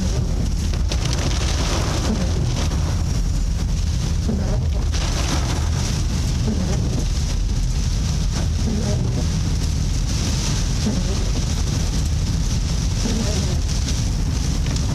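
Vehicle engine and road noise heard from inside a moving vehicle: a steady low rumble with an even hiss over it.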